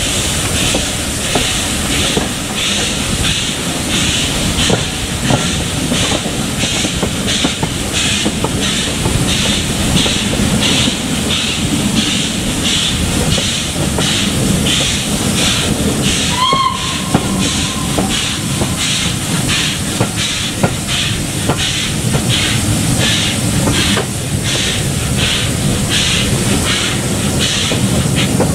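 Steam locomotive working, its exhaust beating in a steady, even rhythm over the rumble of the train. A brief high tone sounds a little past halfway.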